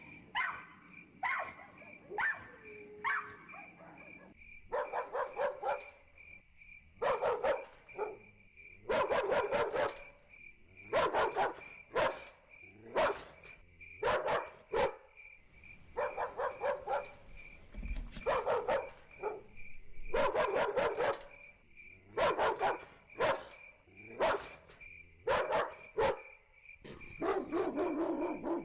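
A dog barking repeatedly, in short runs of barks every second or two, with a steady high-pitched tone underneath.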